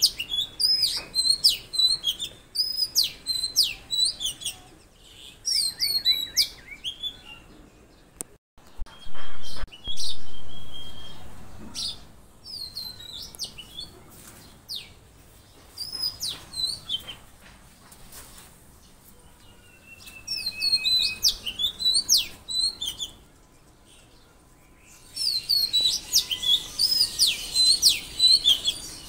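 Small songbirds chirping: rapid high chirps and short whistled phrases in bursts with pauses, busiest near the end. Two sudden loud knocks about nine and ten seconds in.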